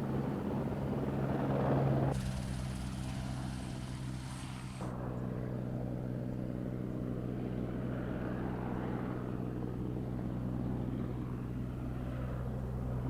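Helicopter in flight, a steady drone from its engine and rotor. The higher part of the sound shifts abruptly about two and five seconds in.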